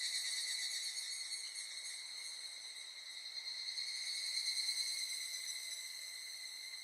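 Chorus of insects giving a steady, high-pitched drone that swells and fades slightly in loudness.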